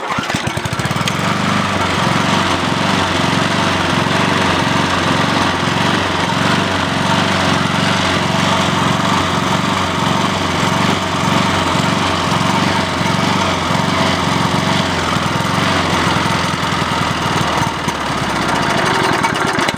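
Push mower's small Briggs & Stratton engine catching right at the start and then running steadily, burning off the last gasoline in its tank; it cuts out at the very end as the tank runs dry.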